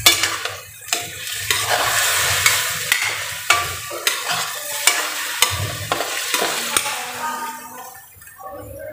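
Chicken frying and sizzling in a metal wok while a metal spatula stirs it, scraping and clicking against the pan. The sizzle dies down a little near the end.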